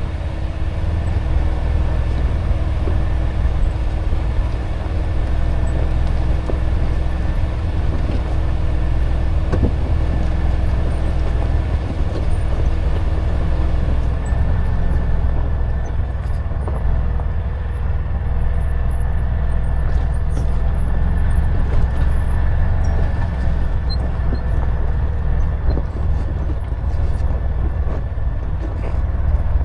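Side-by-side UTV engine running steadily with a deep rumble while the vehicle drives down a steep mountain trail; a fainter steady hum above it drops away about halfway through.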